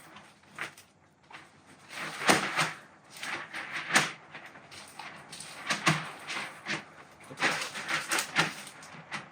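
Fabric of a softbox being handled and cinched tight: irregular rustles and quick pulls of cloth and ties, a handful of louder strokes among quieter handling.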